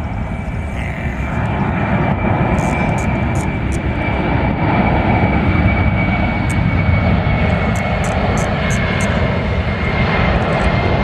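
Airplane engines during a slow flypast: a steady loud rumble with a high whine that falls slowly in pitch.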